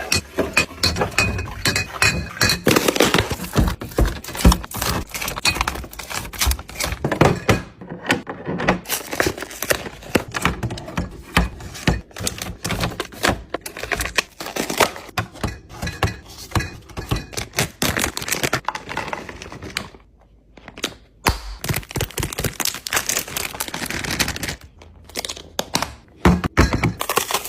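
Food containers, jars and bottles being handled and set down on fridge shelves: a dense, irregular run of knocks, thunks and clatters, with a short pause about two-thirds of the way through.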